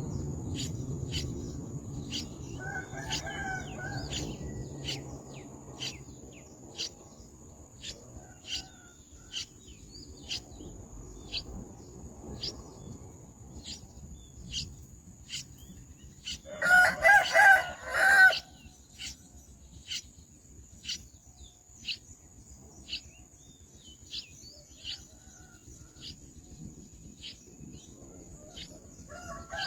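Young birds peeping in short, high chirps, repeated about once or twice a second. A rooster crows loudly once about two-thirds of the way through, with fainter crows near the start and at the end. A steady high-pitched tone runs underneath.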